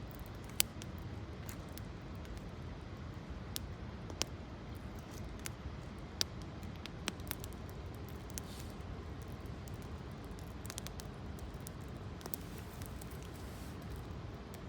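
Campfire of gathered branches burning: sharp crackles and pops at irregular intervals, the loudest about half a second in, over a steady low background noise.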